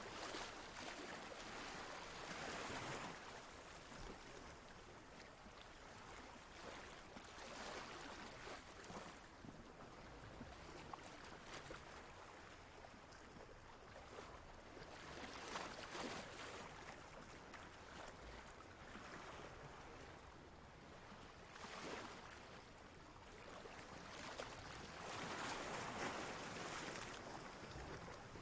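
Ocean waves washing in, the surf noise swelling and fading every few seconds.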